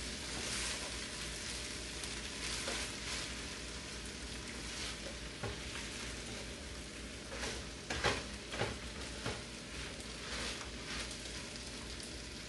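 Cooked purple rice with sautéed onion and squash sizzling steadily in coconut oil in a pot, frying on lowered heat. A few short knocks of a stirring utensil against the pot come around eight to nine seconds in.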